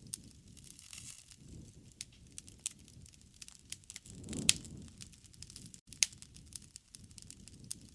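Wood fire crackling with scattered sharp pops. A low rush of flame swells about halfway through, with the loudest pops at its peak and again a moment later.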